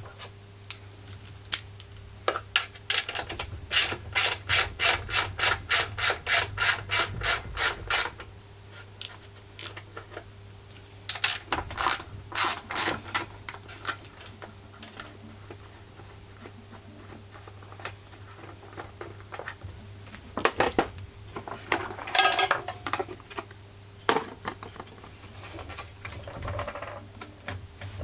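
Socket ratchet wrench clicking as it turns screws: a long even run of about three to four clicks a second, then shorter runs of ratcheting with metal parts being handled.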